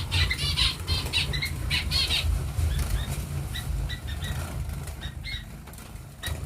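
Small finches fluttering their wings as they fly about the aviary, most busily in the first two seconds, with short high chirps scattered through. A steady low rumble runs underneath.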